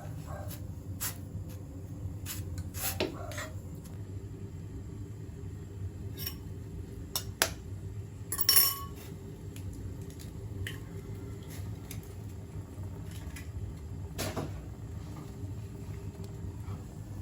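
Scattered light clinks and knocks of small hard objects being handled, the loudest cluster about eight and a half seconds in, over a steady low hum.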